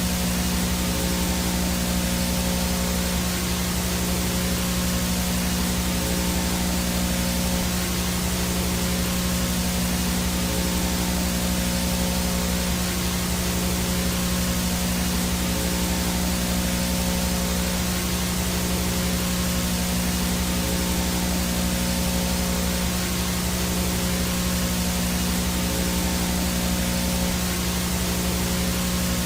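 VHS no-signal static: a steady, even hiss with a low buzzing hum and a faint high steady tone underneath, unchanging throughout.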